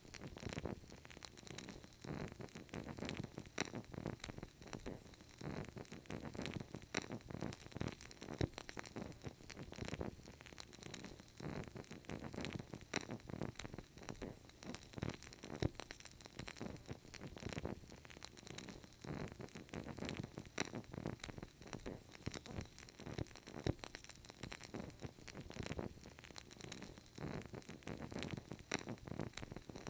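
Burning candle crackling: a steady run of small, soft crackles and pops from the flame and wick.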